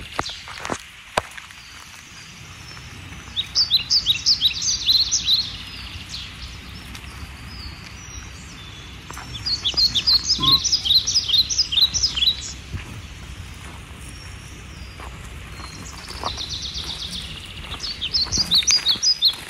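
A bird singing: a burst of quick high notes repeated three times, several seconds apart, with a softer buzzy trill just before the last burst, over a low steady outdoor rumble.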